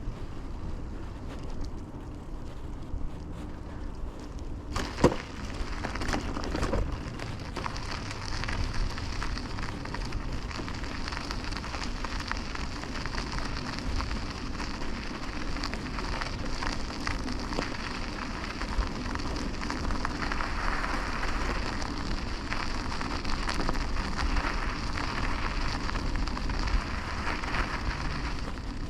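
Riding a 2000 Kona Blast mountain bike: the tyres rolling over the road surface make a steady noisy hiss, with one sharp knock about five seconds in.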